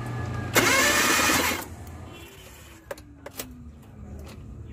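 Starter motor cranking the Suzuki K6A engine for about a second, a fast rapid whirr, with the spark plugs out of the engine for a spark test, so it spins freely without compression. A few sharp clicks follow.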